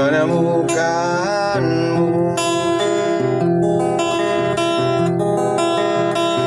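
Acoustic guitar strumming chords in a song's intro, with a wordless gliding melody line over it in the first second or so.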